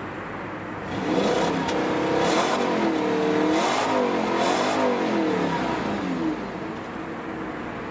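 Exhaust of a 2015 Audi RS5's 4.2-litre V8 idling, then revved in about three blips from about a second in, settling back to idle about six seconds in.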